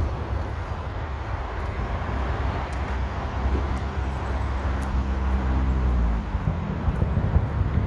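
Road traffic running steadily, with one vehicle's engine hum standing out in the middle and dropping away about six seconds in.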